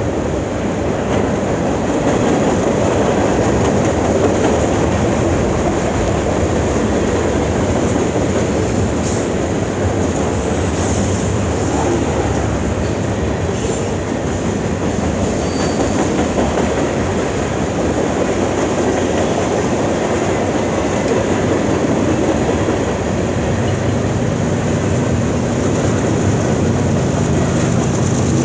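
CN freight cars rolling past: a steady rumble and clatter of steel wheels on rail. Near the end the low drone of a mid-train diesel locomotive grows in.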